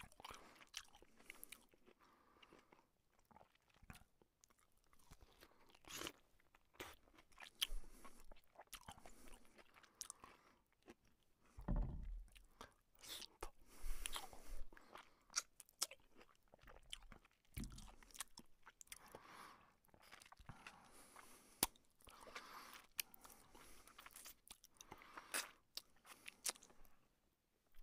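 Close-miked chewing and biting of luchi (puffed fried flatbread) dipped in chicken curry, with irregular wet crunches, crackles and mouth clicks.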